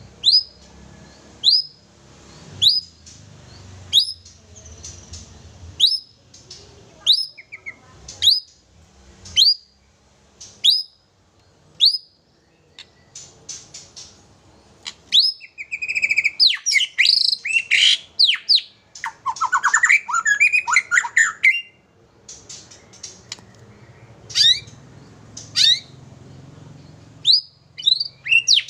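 Nias hill myna calling. A short, sharp, high call repeats about once every second and a bit. About halfway through comes a dense run of varied whistles and fast clicking chatter, then the short repeated calls come back near the end.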